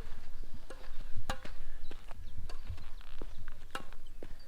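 A series of irregular sharp clicks and knocks, about seven in four seconds, over a steady low rumble.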